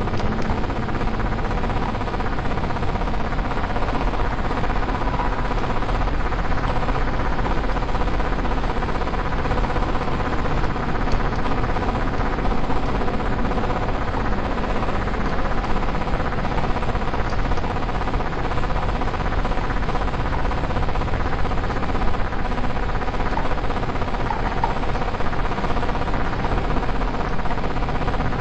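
CNC milling-engraving machine running steadily, a continuous mechanical hum and whir with several steady tones and no break.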